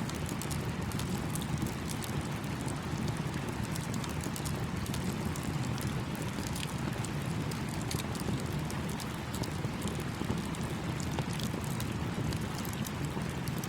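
Campfire crackling with many small sharp pops over the steady rush of a small stream.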